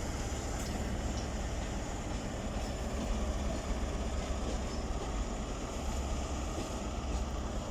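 Diesel engine of a Class 43 HST power car running steadily in the platform, a low, even rumble.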